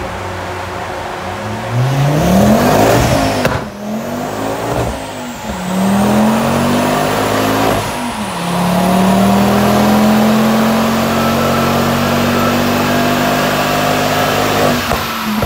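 Car engine accelerating hard through the gears: its pitch climbs and drops at three gear changes, then climbs slowly and steadily in a high gear before the throttle shuts off near the end.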